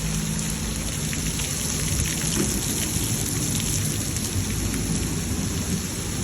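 Heavy tropical rain pouring steadily, with a low rumble underneath.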